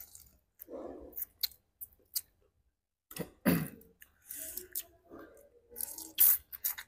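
Close-miked eating sounds of mala shrimp and corn on the cob: irregular chewing and wet mouth clicks and smacks, with sharp crackles.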